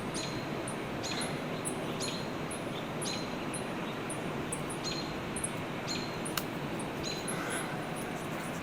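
Outdoor background: a steady hiss of ambient noise with faint, high, short chirps repeating several times a second, from small birds.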